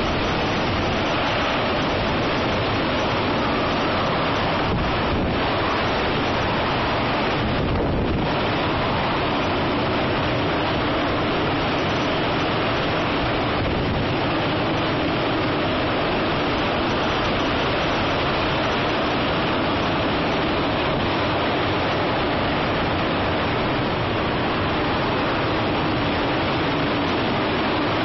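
Typhoon wind and rain: a steady, loud rush of storm noise.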